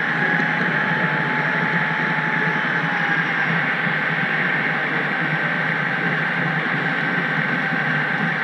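HO-scale model train running along the track, heard close up from on board: a steady hiss with a thin, steady whine. A second, lower whine fades out about three seconds in.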